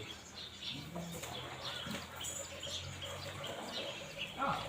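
Birds chirping: many short, scattered calls over a faint low steady hum.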